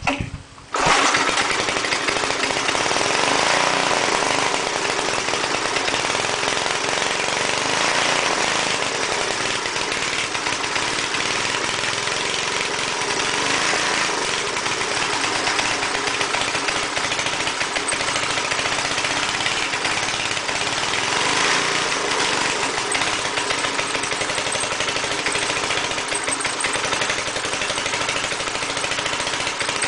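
Briggs & Stratton engine on an air compressor catching a little under a second in and then running steadily. The owner says it is running badly and suspects the governor or the carburettor.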